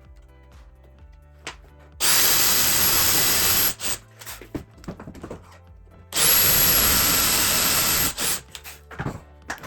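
A power tool run twice in bursts of about two seconds, starting about two seconds in and again about six seconds in, each with a high whine and stopping abruptly. A few light knocks follow near the end.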